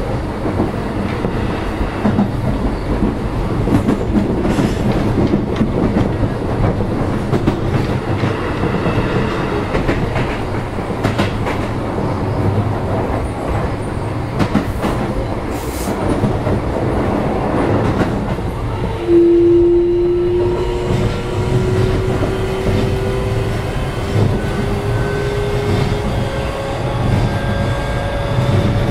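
Keio 7000 series electric train running, heard from inside the car: wheels rumbling on the rails with scattered clicks over joints. About two-thirds of the way through, a motor whine sets in and climbs steadily in pitch as the train picks up speed.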